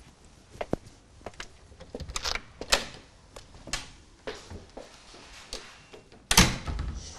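Scattered clicks and knocks in a small room, with one louder thump about six and a half seconds in.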